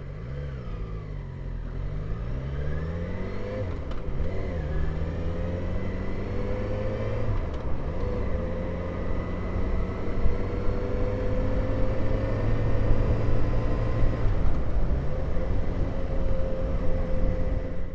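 Motorcycle engine riding away through the gears: the pitch rises under acceleration and drops at each gear change, then holds steady at a cruise.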